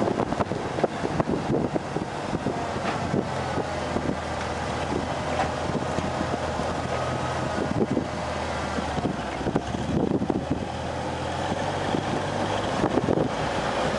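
Towmotor yard fork truck's LP-fuelled Chrysler engine running steadily, with frequent knocks and rattles over it and wind on the microphone.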